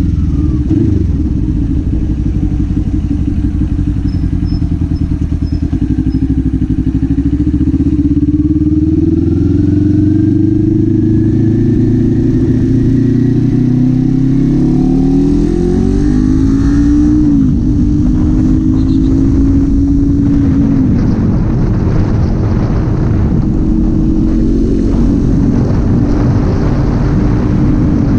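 Kawasaki Z400 parallel-twin engine and exhaust under way. The engine note falls off at first, then climbs steadily under throttle for about ten seconds, rises sharply and drops at a gear change about 17 seconds in, then holds a steady cruising note with rushing wind noise.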